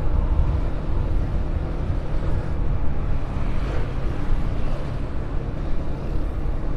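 Motor vehicle engine running steadily at cruising speed, with wind and road noise, heard from on board while riding.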